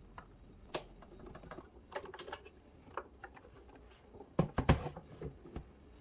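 Irregular light clicks and taps of hands working on a DJ controller's plastic parts, with a quick cluster of louder clicks about four and a half seconds in.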